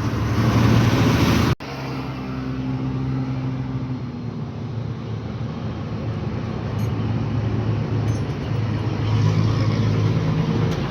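A motor vehicle's engine running steadily with a low hum. About a second and a half in, a louder rushing noise cuts off sharply.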